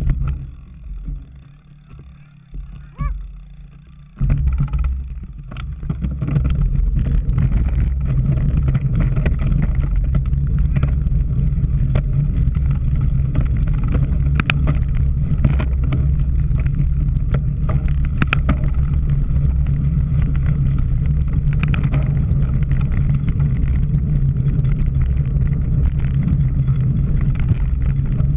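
Wind buffeting the microphone of a camera carried on a moving bicycle: a steady low rumble that eases for a few seconds, then comes back strongly about four seconds in, with scattered sharp clicks over it.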